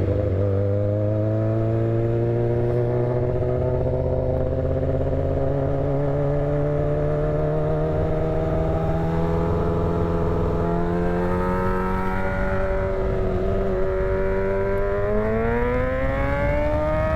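Motorcycle engine running under way, its note climbing slowly as it pulls out of a tight turn and rising more sharply near the end as the throttle opens.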